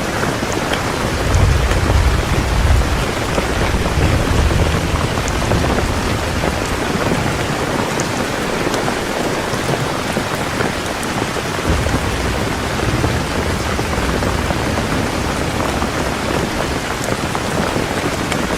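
Heavy rain pouring steadily, with low rolling rumbles of thunder building about a second in and again near the twelve-second mark.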